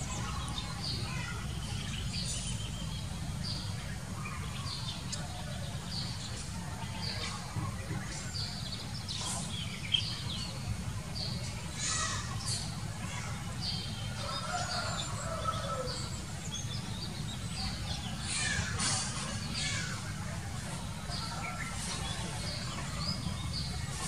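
Many short, high bird chirps and calls throughout, with a lower call falling in pitch about two-thirds of the way in, over a steady low rumble.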